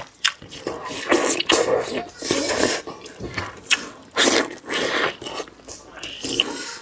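Close-miked chewing and smacking of a person eating sausage, in irregular wet clicks and bursts.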